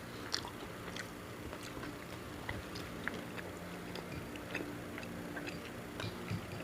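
People chewing food, with soft mouth smacks and small irregular clicks.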